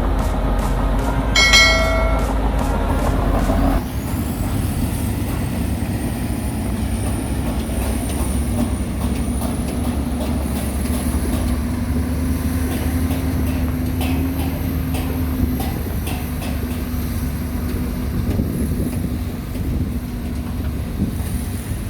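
Heavy diesel earthmoving machinery running with a steady low rumble. A short, high squeal comes about a second and a half in, and the sound changes abruptly near four seconds in.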